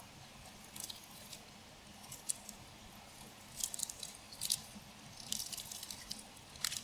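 Crispy fried bánh xèo crunching in short crackling bursts, several times over, mostly in the second half. The sound is faint.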